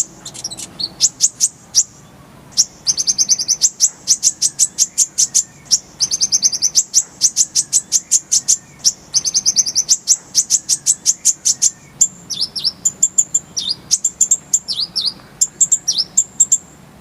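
Kolibri ninja (a sunbird) singing: rapid series of sharp, high-pitched chirps strung into dense trilled phrases, turning to more varied, scattered notes about twelve seconds in.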